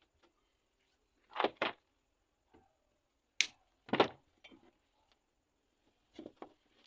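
A few short, sharp knocks and clicks with quiet between them: a pair about a second and a half in, a sharp click and then a heavier knock around the middle, and another pair near the end. No motor is running.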